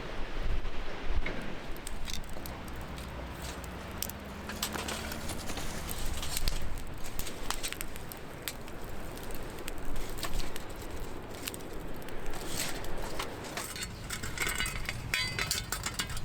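Wood-fire camp cooking sounds: a steady crackle with many scattered sharp clicks and light metallic clinks.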